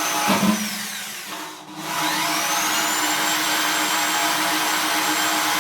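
Electric drill running with a steady high motor whine; about a second in it winds down almost to a stop, then speeds back up to full speed and runs on steadily.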